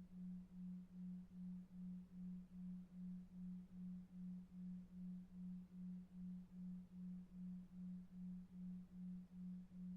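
A steady low synthesized tone, pulsing evenly about two and a half times a second: a 2.5 Hz delta-wave pulsed tone meant to lull a child to sleep, over a faint low noise bed.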